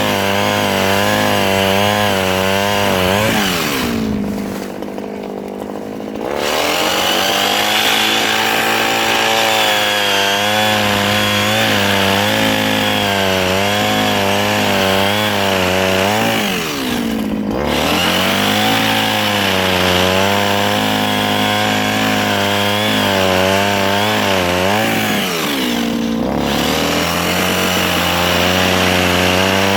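Mini chainsaw cutting soft wood, its motor pitch wavering as the chain bites. Three times it drops away briefly and speeds back up: once about four seconds in, with a short quieter spell, then again near the middle and near the end.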